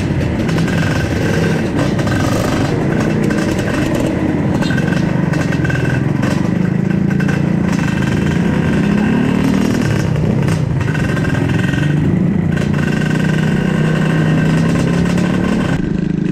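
Trail motorcycle engine running while riding, its pitch rising and falling with the throttle.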